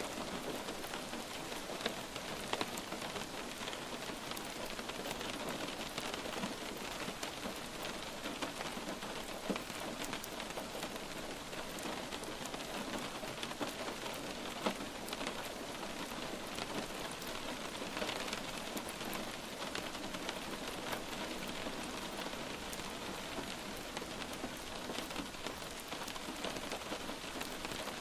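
Light rain falling steadily on a surface, an even hiss with many small scattered drop ticks.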